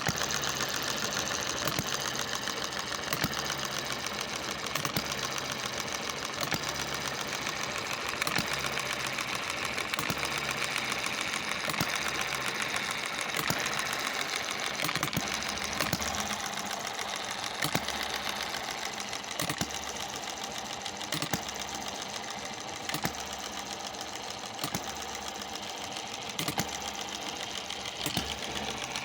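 Cheap Chinese-made hit-and-miss engine running steadily, with a continuous fast mechanical clatter and a sharper knock recurring about every second and a half to two seconds.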